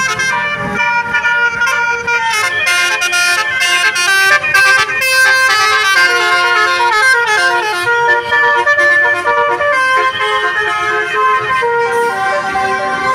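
A bus's musical multi-note horn, the Indonesian 'telolet' kind, playing a quick melody of stepping notes, loud and continuous.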